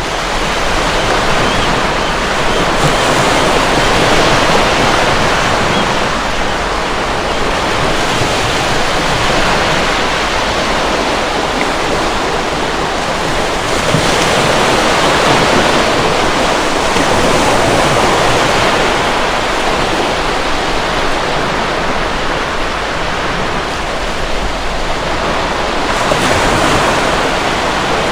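Ocean surf: waves breaking and washing in, a steady loud rush that slowly swells and eases.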